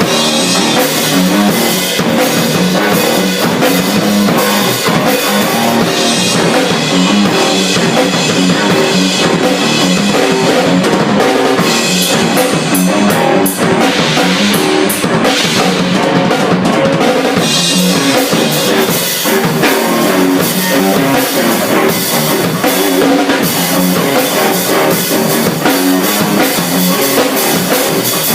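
Improvised rock jam of a drum kit and electric guitar playing together, the drums hitting hard and steady throughout. The high cymbal wash drops back for a few seconds in the middle, leaving a handful of separate sharp hits.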